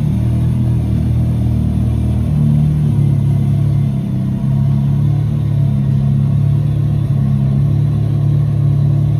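BMW R 1250 GS boxer-twin engine running, with its pitch shifting slightly a few times.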